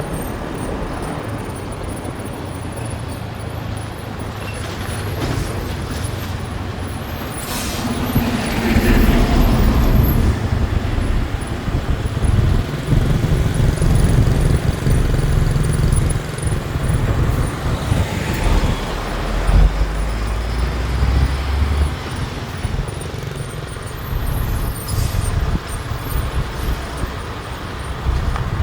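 Motorbike riding along a gravel road: steady engine and road noise that grows louder and rougher from about eight seconds in.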